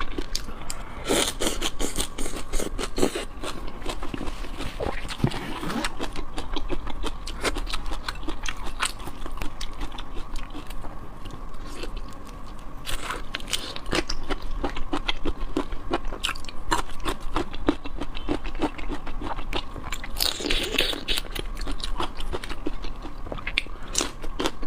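Close-miked eating of shrimp: continuous wet biting, crunching and chewing, a dense run of small clicks and crackles.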